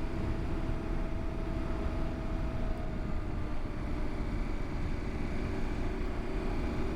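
KTM 890 Adventure R's parallel-twin engine running at a steady cruise on pavement, with wind rushing over the microphone.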